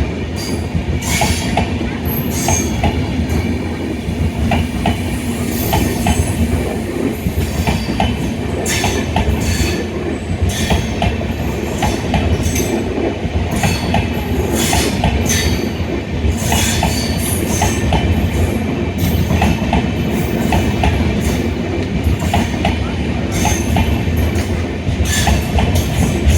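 Indian Railways express passenger coaches running over the track: a steady low rumble with many irregular clicks and clatters of the wheels over rail joints, and high squealing streaks from the wheels.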